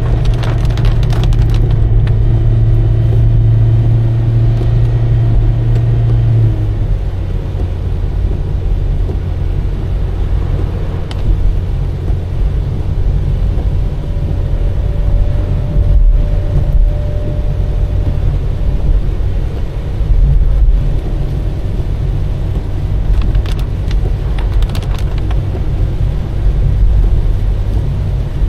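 Car driving on a wet road: a steady low rumble of engine and tyres, with an engine hum that drops in pitch about six and a half seconds in. A few faint clicks near the start and again near the end.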